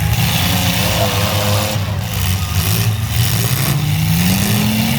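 Several mini trucks' engines running together in a race, with one engine climbing in pitch over the last second or so as it accelerates.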